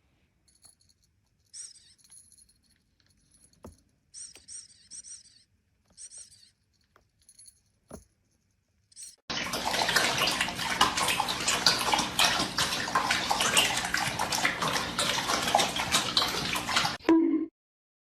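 Water running hard, as from a tap, starting suddenly about nine seconds in and cutting off shortly before the end. Before it there are a few faint, short high-pitched chirps.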